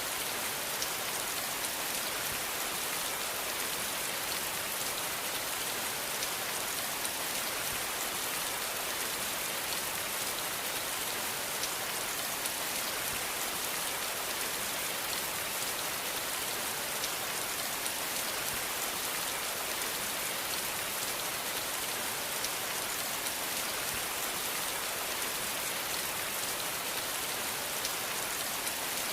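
Steady rain falling, an even hiss of many drops with faint scattered drop ticks and no breaks.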